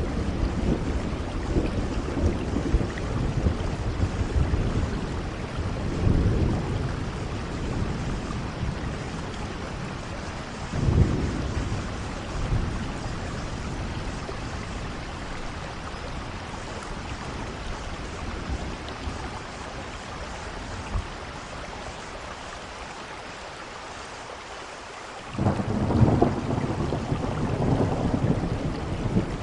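Steady rain falling through a thunderstorm, with thunder rumbling low a couple of times and a louder roll of thunder breaking in suddenly near the end.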